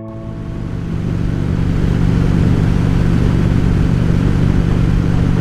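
Harley-Davidson Road King's V-twin engine running steadily at cruising speed, with wind and road noise, growing louder over the first two seconds.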